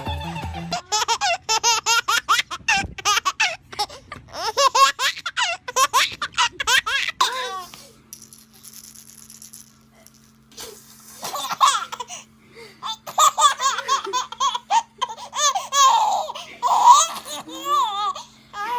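A baby laughing in quick runs of high-pitched giggles, in two long spells with a quieter pause of a few seconds between them.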